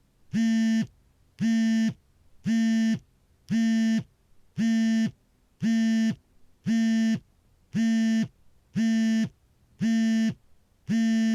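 Smartphone vibrating for an incoming call: a steady pitched buzz in short pulses of about half a second, repeating roughly once a second.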